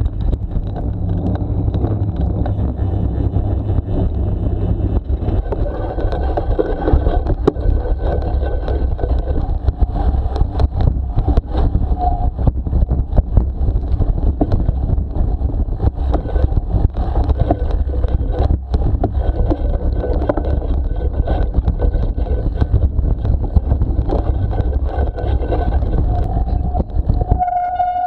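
Wind rushing over the microphone and tyre rumble from a bicycle riding along, steady throughout, with frequent small knocks and rattles from the bike going over a rough surface.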